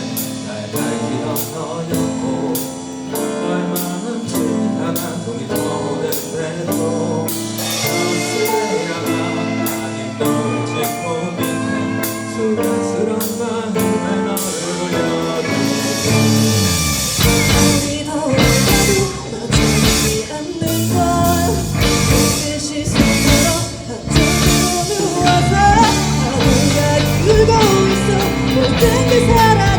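A live rock band playing, with electric guitars, keyboard, bass and drums and a singer's voice over it. The first half is lighter, with no deep bass; about halfway the full drum kit and bass come in and the music gets louder.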